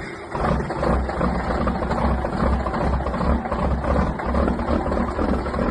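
Detroit Diesel Series 60 12.7-litre diesel engine running at idle with a steady low rumble. Its turbo's rear shaft seal has failed and it is pushing engine oil out the exhaust.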